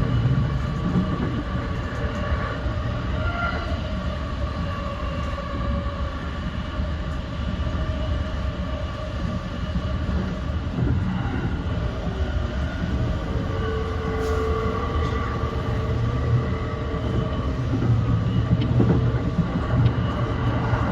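E235-1000 series electric train running along the track, heard from on board: a steady rail rumble with a faint whine from the traction motors.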